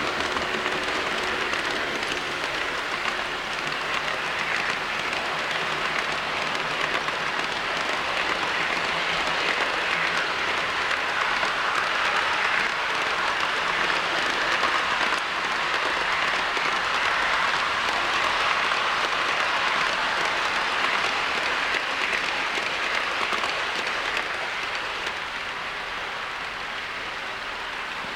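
Model train of two KATO DD51 locomotives pulling container wagons running along the track: a steady rushing rattle of small wheels on rail and motor, louder in the middle and dropping off near the end.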